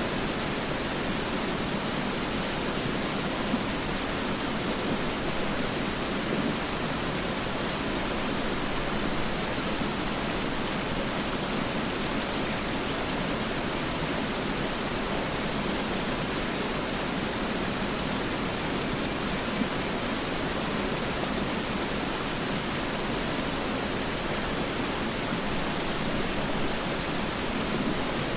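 Mountain river rushing over rocks, a steady even roar of water.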